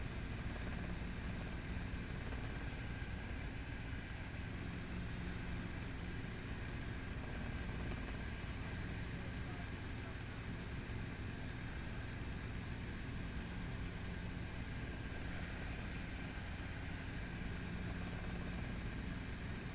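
Helicopter engine and rotor running steadily: an even drone with a constant hum of several fixed tones.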